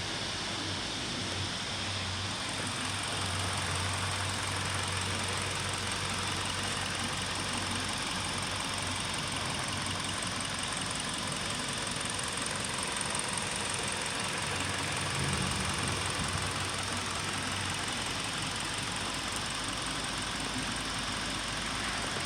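Hyundai i30 engine idling steadily.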